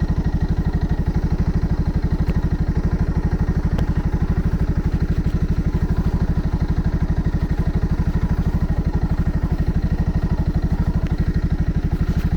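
Segway Snarler 570 ATV's single-cylinder engine idling steadily, with an even, unchanging beat.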